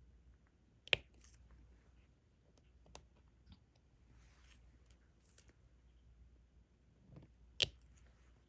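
Quiet clicks and taps of diamond painting work: a stylus picking up and setting small resin drills on the tray and canvas. Two sharper clicks, about a second in and near the end, with a few fainter ticks between.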